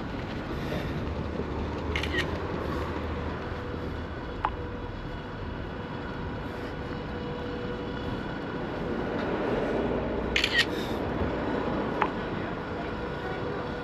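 Steady outdoor background noise with a faint steady hum, broken by a few short clicks and ticks about 2, 4.5, 10.5 and 12 seconds in.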